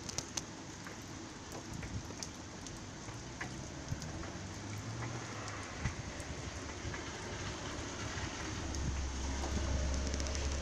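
Steady rain falling, an even hiss with scattered sharp drip ticks. A low hum joins in faintly in the middle and comes up stronger near the end.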